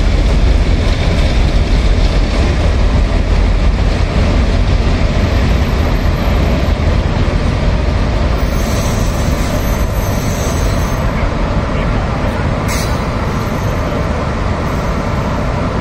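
Locomotive-hauled passenger train rolling past along the platform track: a steady low rumble of wheels and coaches that slowly fades as the train moves off. One sharp click near the end.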